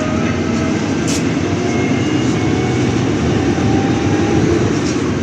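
City bus interior: engine and road noise while the bus drives, with a faint whine slowly rising in pitch and a brief click about a second in.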